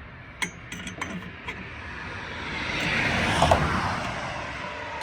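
A vehicle passing by on the road, its noise swelling to a peak a little past the middle and fading away again. A few sharp clicks come in the first second and a half.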